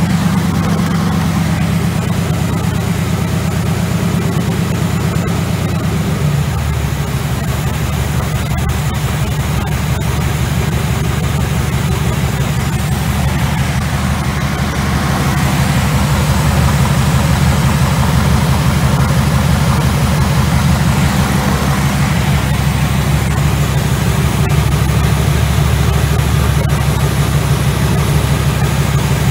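1963 Oldsmobile Jetfire's turbocharged 215 aluminum V8 running steadily on an engine stand during camshaft break-in. Its tone shifts about six seconds in.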